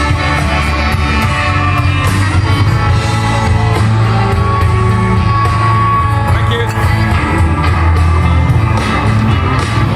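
Live blues band playing, with guitar over bass and drums and a singer; a long held note sounds about halfway through.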